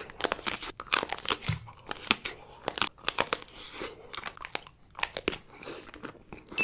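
Close-up biting and chewing of a Kit Kat chocolate-covered wafer bar, with many sharp, irregular crunches of the crisp wafer.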